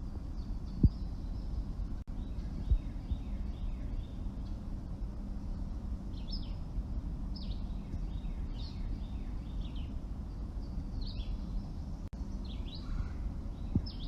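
Small songbirds chirping, with many quick notes that fall in pitch and come more often in the second half, over a steady low outdoor rumble. Two brief knocks sound in the first few seconds.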